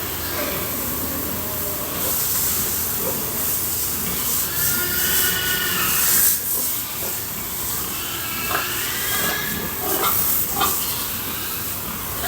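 Water hose spraying pigs with a steady hiss. Pigs squeal a few times near the middle and again toward the end.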